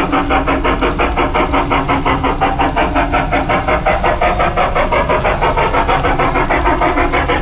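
LGB Mogul G-scale model steam locomotive running steadily, with an even rhythmic pulse of about six beats a second.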